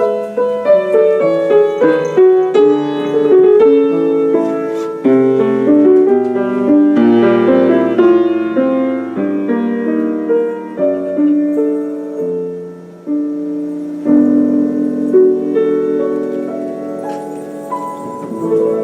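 Solo piano playing the introduction to a song, a melody of struck notes over sustained lower chords.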